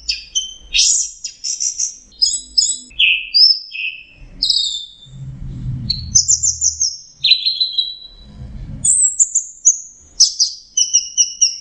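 Orange-headed thrush singing a fast, varied song of high whistled notes, chirps and slurred phrases, with short gaps between phrases. This is a lure song used to get stressed or silent captive thrushes singing. A low rumble sounds beneath it twice, around the middle.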